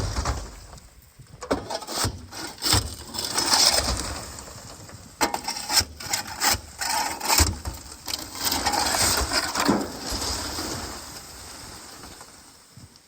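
Frozen sand being broken loose from a trailer bed: irregular cracking knocks and gritty crunching and scraping as the frozen chunks give way.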